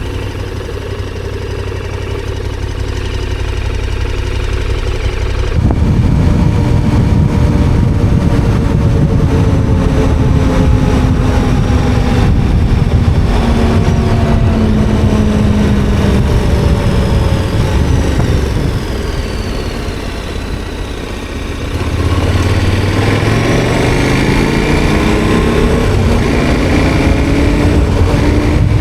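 KTM 1290 Super Adventure R's V-twin engine under way, heard from the bike. It runs steadily at first; about six seconds in it gets suddenly louder under a rush of noise, and its pitch sinks slowly. About twenty-two seconds in the pitch climbs again in steps as the bike accelerates.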